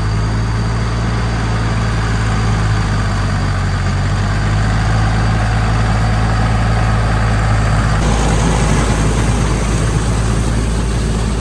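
A restored old tractor's engine running steadily with a low hum, its sound turning rougher and noisier about eight seconds in.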